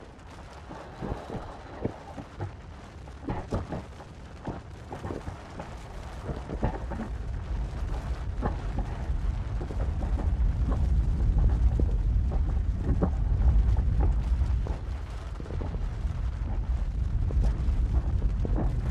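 Lava breaking through its cooled crust: sharp cracks and pops, with a low rumble that builds from about six seconds in and stays loud to the end.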